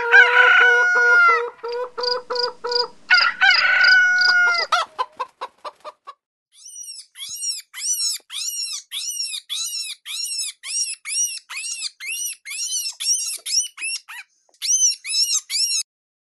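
A rooster crowing twice in the first five seconds. After a short pause comes a long run of short, high-pitched arched peeps, about three a second, that stops shortly before the end.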